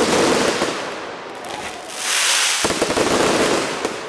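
Fireworks going off in two rapid volleys, each a dense run of bangs and crackling. The first volley eases off about a second and a half in, and a second one builds about two seconds in.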